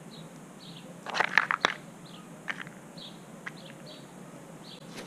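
A crow pecking at food on a feeder: a quick cluster of sharp taps and clicks about a second in, the loudest sound, then single taps. Behind it a small bird repeats a short falling chirp about every two-thirds of a second.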